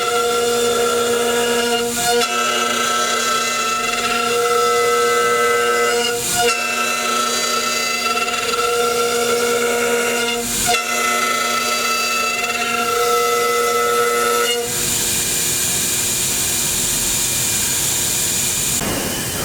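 Spindle of a 5-axis CNC router whining at a steady high pitch while cutting wood, with brief dips about every four seconds. About fifteen seconds in, the whine gives way to a steady hiss.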